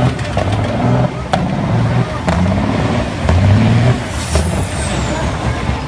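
Peterbilt semi truck's diesel engine revving hard in repeated surges while doing donuts, with a high whistle that rises and then slides down.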